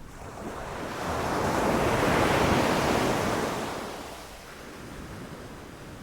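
A sea wave breaking on the beach: the surf noise swells for about two seconds, peaks, and dies back down about four seconds in to a lower wash.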